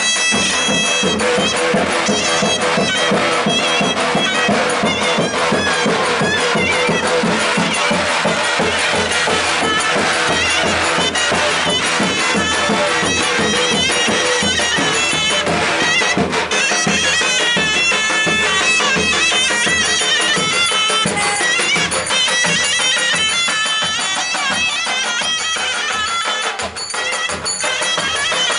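Traditional folk dance music played loud: a shrill wind instrument over a steady, driving drum beat.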